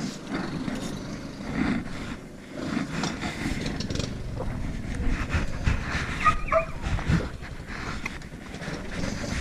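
A vehicle engine running steadily, with a dog giving a brief call about six seconds in.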